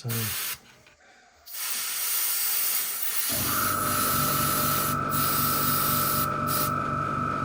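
Airbrush spraying paint: a short hiss, then a steady hiss of air and paint. About three seconds in, a small motor starts running under it with a steady hum and whine.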